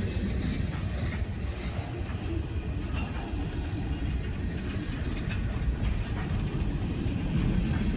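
Freight train cars rolling past, a steady low rumble of wheels on rails with occasional faint clicks.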